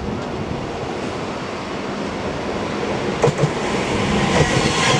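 TransPennine Express Class 397 electric multiple unit approaching and running past at speed: a rising rush of wheels on rail, with a couple of sharp wheel clicks about three seconds in, growing louder toward the end.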